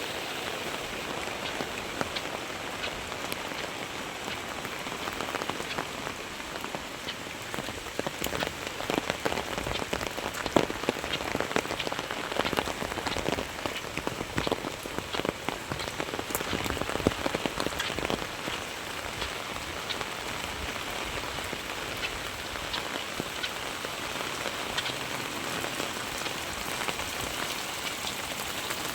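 Heavy rain falling, with a steady hiss and dense close drop impacts that grow thicker and louder for about ten seconds in the middle.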